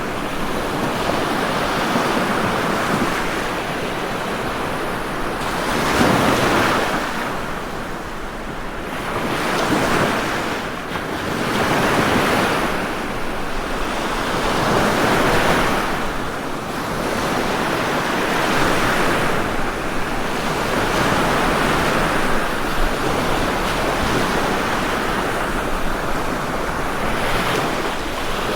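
Ocean waves breaking and washing on a shore, a continuous surf that swells and recedes every few seconds.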